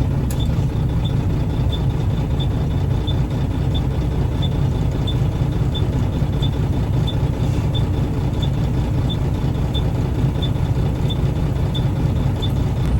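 Triaxle dump truck's diesel engine idling steadily, heard from inside the cab. A faint high tick repeats evenly about one and a half times a second.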